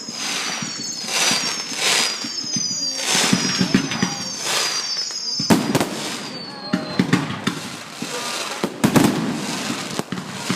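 Fireworks display: a run of whistling fireworks, each whistle falling in pitch and repeating about once a second for the first several seconds, mixed with crackling bursts and several sharp bangs.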